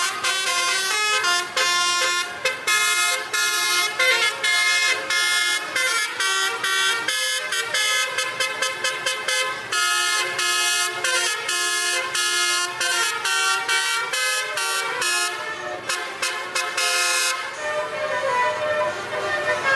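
Basuri musical truck horns playing a fast melody, one horn note after another in a quick, chopped rhythm.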